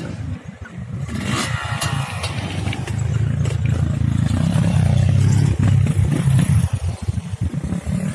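150 cc single-cylinder trail motorcycle engine running under way, growing louder over the first few seconds and then pulling steadily hard, with scattered sharp clicks and clatter in the first couple of seconds.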